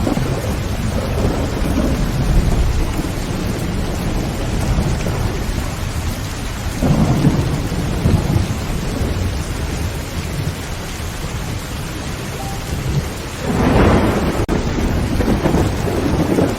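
Heavy rain drumming steadily on a tin roof, with thunder rumbling low underneath; the thunder swells about seven seconds in and again in a longer roll near the end.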